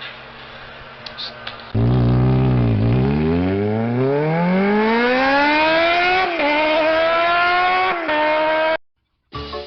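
A motor vehicle engine revving up, its pitch dipping briefly and then rising steadily for several seconds before levelling off. It cuts off suddenly near the end.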